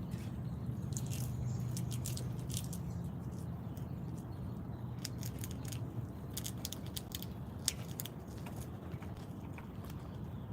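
Small animal at a seed feeder cracking and chewing seeds: a quick, irregular run of crisp crunching clicks that thins out near the end, over a steady low rumble.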